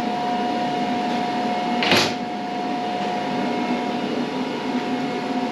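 Steady mechanical hum with a constant tone, and one short hiss about two seconds in.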